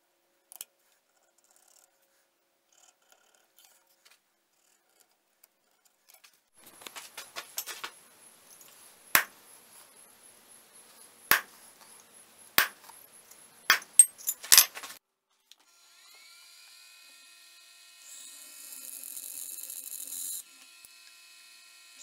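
Workshop tool work: a run of sharp taps and clicks, about five of them loud, then a small electric power tool spinning up with a brief rising whine and running steadily, louder for a couple of seconds near the end.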